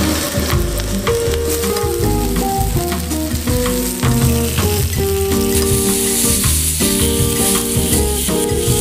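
Halved tomatoes sizzling as they sear in hot olive oil in a frying pan, turned with tongs. The sizzle grows louder in the second half. Background music plays over it.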